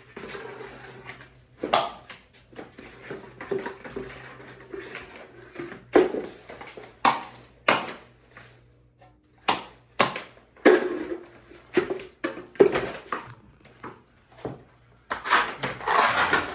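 Trowel knocking and scraping as setting-type joint compound is loaded and pressed into cracks and low spots in old plaster: sharp clacks every second or two with rasping scrapes between them, and a longer stretch of scraping near the end.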